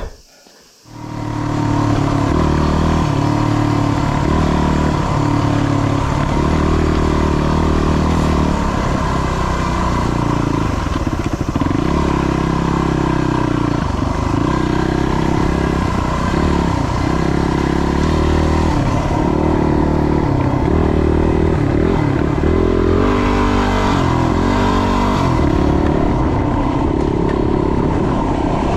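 Yamaha WR250 trail bike's single-cylinder four-stroke engine riding off-road, coming up loud about a second in, its revs rising and falling over and over with the throttle and gear changes.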